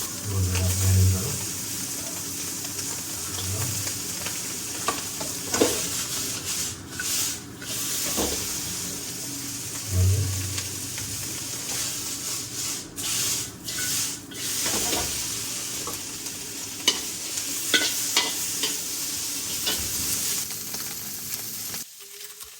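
Buffalo brain sizzling as it fries in a pan while being stirred, with scattered clicks and knocks of the utensil against the pan. The sizzle cuts off suddenly just before the end.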